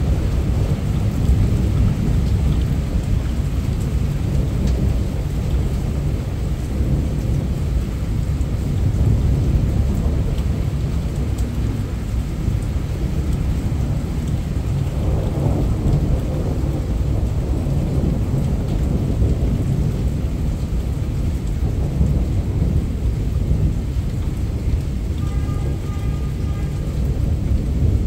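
Heavy thunderstorm rain pouring steadily, picked up by a mobile phone's microphone, with a deep continuous rumble of thunder that swells a little about halfway through.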